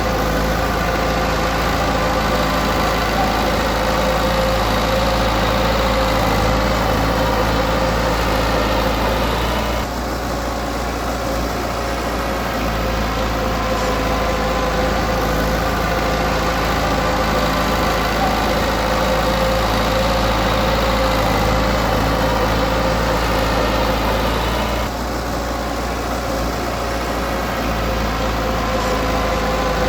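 Heavy-equipment diesel engine running steadily under work. Twice it eases off for a couple of seconds, once about ten seconds in and again about fifteen seconds later, before picking back up.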